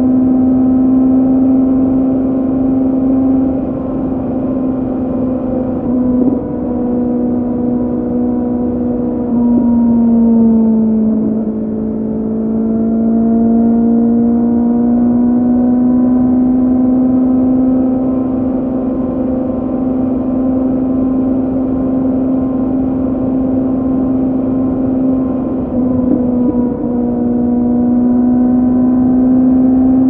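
2006 Kawasaki Z750's inline-four engine running through a Scorpion carbon exhaust with the dB killer out, holding a steady engine speed on the move. The revs drop about ten seconds in and climb slowly back, with brief dips about six and twenty-six seconds in.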